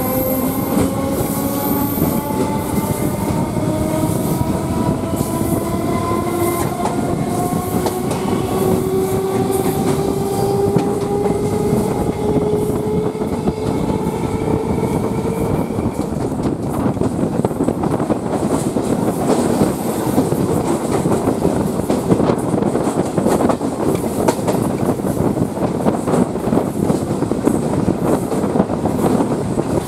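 Electric multiple-unit local train pulling away and gathering speed: the traction motors' whine rises steadily in pitch for about the first half, then gives way to the dense rumble of wheels on rail with quick clicking over the rail joints.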